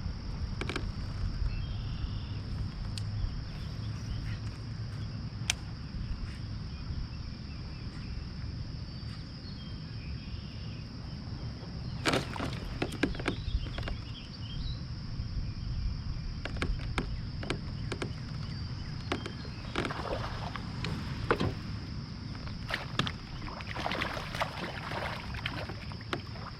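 Scattered knocks and clicks aboard a fishing kayak, clustered about halfway through and again in the last several seconds. Under them run a steady low rumble and a constant high-pitched hum.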